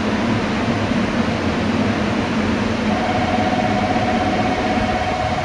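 JR Kyushu 883 series 'Sonic' electric train standing at the platform, its air-conditioning and auxiliary equipment giving a steady hum and rush. About halfway through, a steady high tone starts alongside it.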